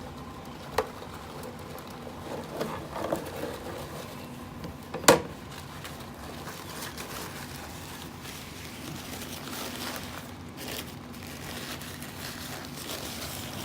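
Soft handling and rustling noises with a few light clicks and one sharp knock about five seconds in, over a steady low hum.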